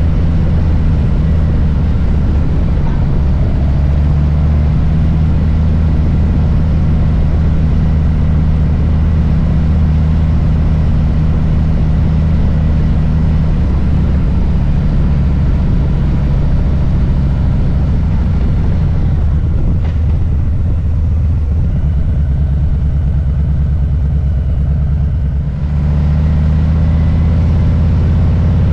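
Harley-Davidson Low Rider S's Milwaukee-Eight V-twin running on the move, a steady low rumble with a fast beat of firing pulses. About two-thirds of the way through, the higher part of the sound thins out for several seconds, then comes back near the end.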